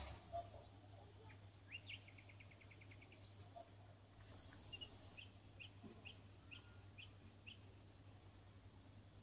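Faint bird chirps over a low steady hum: a quick trill of short notes about two seconds in, then a run of six short rising chirps, a little over half a second apart, in the second half.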